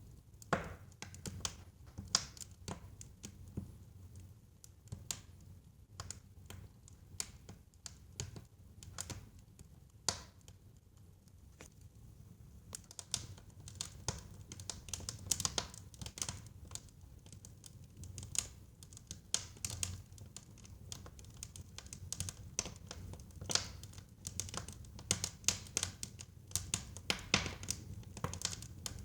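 Wood fire crackling in a fireplace: irregular sharp pops and snaps over a low steady rumble of the flames. The crackles come thicker and louder in the second half.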